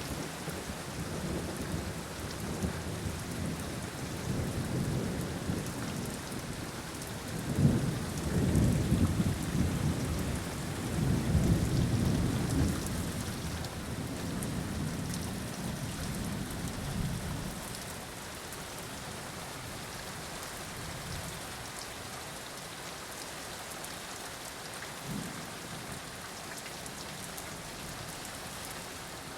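Steady rain falling, with a long rumble of thunder that breaks in sharply about a quarter of the way in, swells for several seconds and rolls away over about ten seconds. A short, faint rumble comes near the end.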